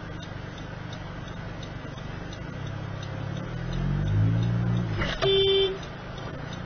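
Car engine and road noise heard from inside the cabin, the engine note climbing as the car accelerates, then a short car horn honk about five seconds in.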